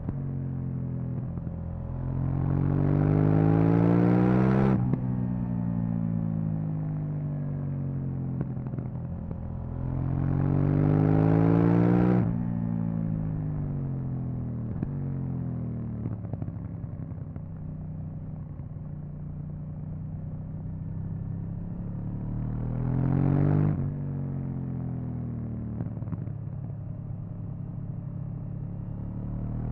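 KTM 790 Duke's 799 cc parallel-twin on its stock exhaust, ridden. It pulls hard three times with the pitch rising, and each pull is cut off sharply. In between it drops back and runs more quietly on part throttle.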